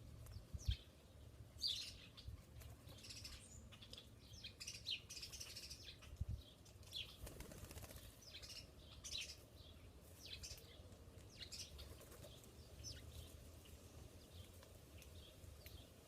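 Small birds at a feeder, fluttering their wings and giving short high chirps on and off, with a brief low thump about half a second in and another about six seconds in.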